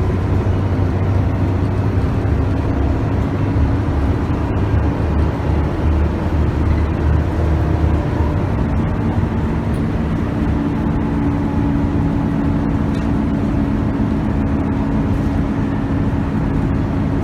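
Scania K280UB bus's 9.3-litre five-cylinder diesel engine running under way with its ZF Ecomat automatic, heard from inside the cabin along with road noise. About ten seconds in the engine note changes and settles into a steady hum.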